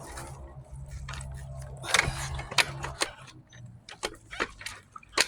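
A dirt bike engine running at a steady idle that fades out about three seconds in, followed by a string of sharp clicks and knocks.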